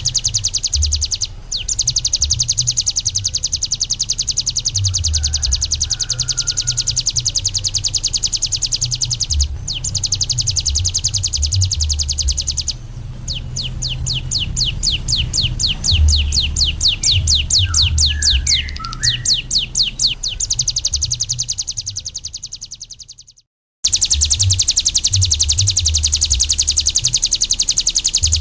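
A ciblek gunung, a prinia, singing a long, fast, high-pitched trilling chatter of evenly repeated notes. The notes loosen to about five a second midway, and the song breaks off briefly near the end before resuming. A low irregular rumble runs underneath.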